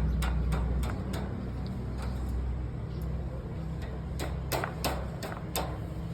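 Sharp clicks or taps in two quick runs, about five in the first second and about six more between four and six seconds in, over a steady low hum.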